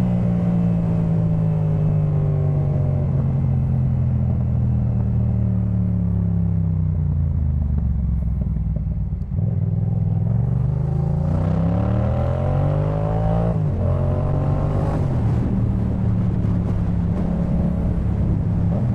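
2018 Yamaha MT-07's 689 cc parallel-twin engine running through a Jeskap K4 full exhaust, heard from the rider's seat. The engine note falls away for about nine seconds as the bike slows. It then climbs under acceleration, breaks off sharply at a gear change about two-thirds of the way through, and settles to a fairly steady cruise.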